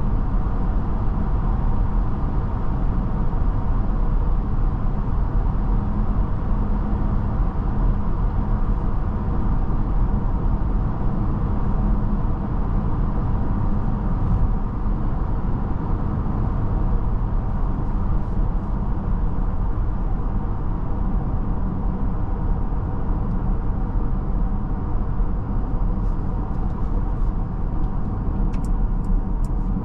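Steady road and tyre noise of a Mercedes-Benz GLB350 driving, heard from inside the cabin, with a run of quick, regular ticks near the end.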